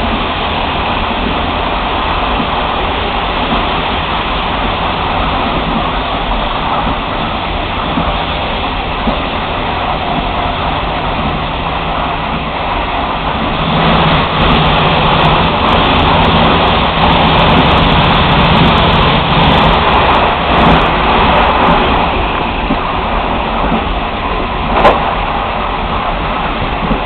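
Running noise of a passenger train heard from the rear of its last coach: a steady rumble and rush of wheels on rails. About halfway through it grows louder with a low hum for several seconds, and a single sharp clank sounds near the end.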